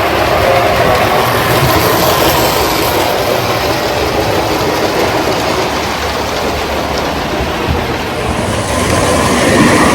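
Tinplate toy electric train running on three-rail track: a steady motor whir with wheels clattering over the rails. It grows louder near the end.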